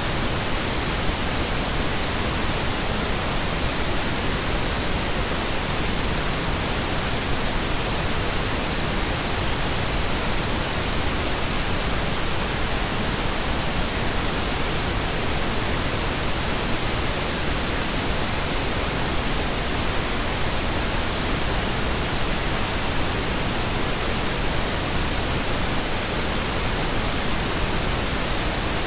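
Steady, unchanging pink noise: an even hiss spread across all pitches, generated as a sleep-masking sound.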